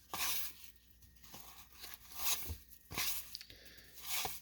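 1991 Topps wax pack wrapper crinkling and tearing as a pack is opened, in several short rustles with a couple of soft taps.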